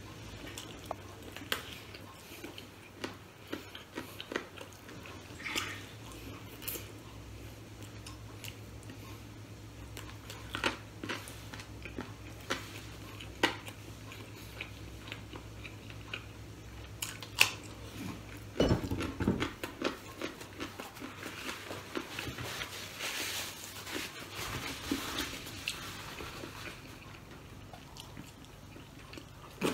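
Close mouth sounds of a man eating fried chicken and rice with his hands: chewing and biting, with many small scattered clicks. A low steady hum underneath stops suddenly about two-thirds of the way through.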